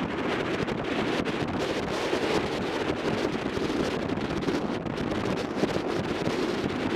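Steady wind rush on the microphone of a motorcycle riding at speed.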